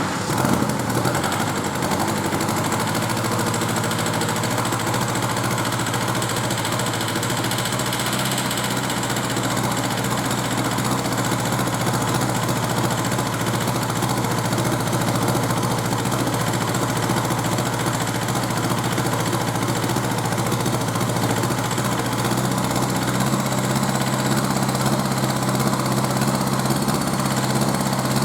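Kia Sportage 1.7 CRDi D4FD four-cylinder common-rail turbodiesel engine idling steadily, run on its own to check its condition.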